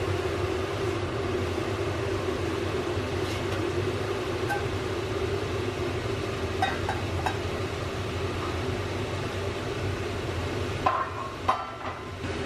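A steady mechanical hum from a running motor or appliance, with a few light clicks and two sharper knocks near the end.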